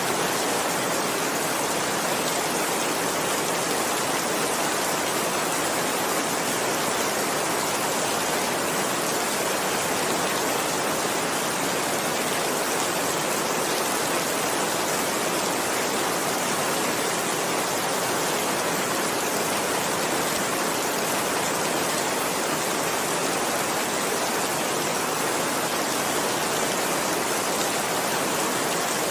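Heavy rain falling steadily, a dense even hiss with no thunder or other events standing out.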